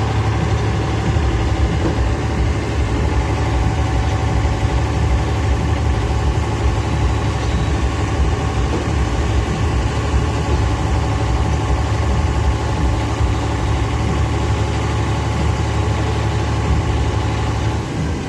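Eicher 485 tractor's diesel engine idling steadily.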